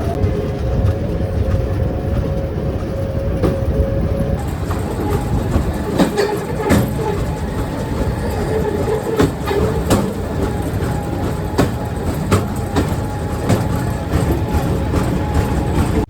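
Pedal rail bike rolling along its track: a steady rumble of steel wheels on the rails, with irregular clicks and clacks.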